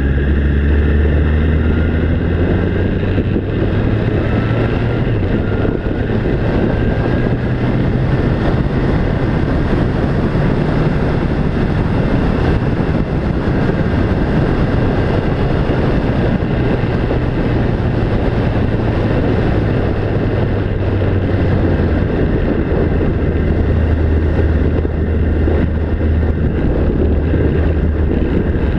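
A vehicle engine running steadily while under way, with wind noise, its pitch shifting slightly near the start.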